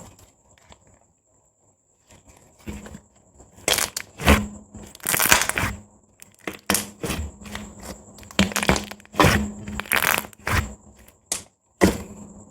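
Fingers pressing and stretching soft white slime, making irregular crackling pops as air bubbles in it burst. The pops start about two and a half seconds in, after a quiet stretch, and come unevenly, some single and some in short crackling runs.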